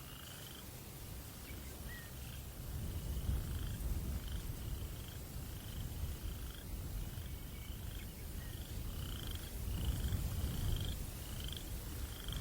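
A night creature, a frog or insect, repeats a short buzzy call about one and a half times a second over a low breeze rumble. The rumble grows louder about three seconds in and again near ten seconds.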